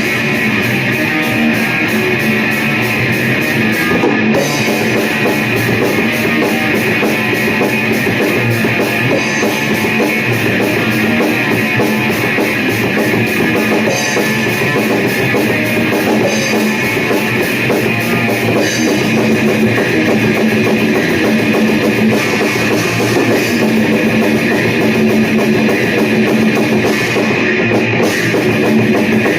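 Heavy rock music with electric guitar and a full drum kit, playing loud and continuous.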